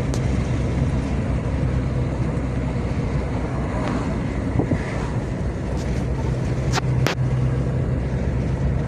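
Car running along a road: a steady low engine hum with road and tyre noise, and a couple of light clicks about seven seconds in.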